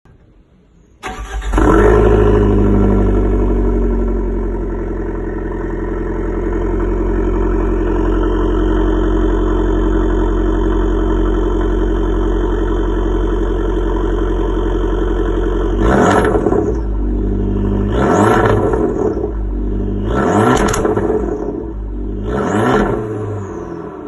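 Abarth's 1.4 T-Jet turbo four-cylinder cranked and started from cold with the exhaust valve open. It catches and flares loudly, settles into a steady, raised cold idle, then is blipped four times, about two seconds apart, near the end.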